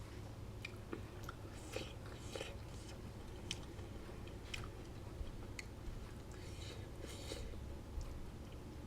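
Chewing a mouthful of black bean taco: irregular soft wet smacks and clicks of eating.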